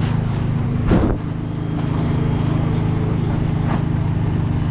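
An engine running steadily at a constant speed, with a single knock about a second in.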